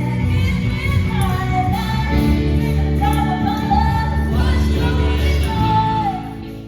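A band playing with a singer holding long, wavering notes over it. The music fades down near the end.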